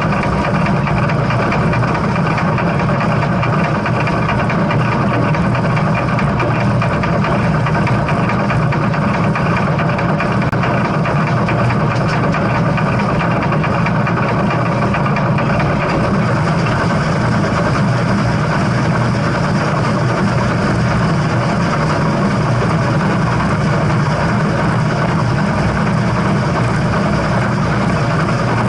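A steady, loud rumble of a moving train, with no breaks or changes.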